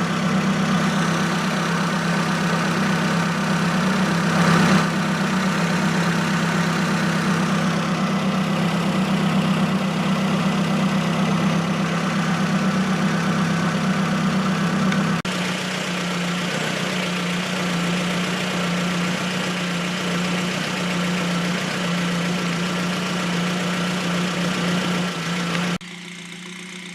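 Ford Focus Mk1 RS's turbocharged 2.0-litre four-cylinder idling steadily while warming up after a cold start. About halfway through the sound suddenly drops a little in level and the idle takes on a slight pulsing.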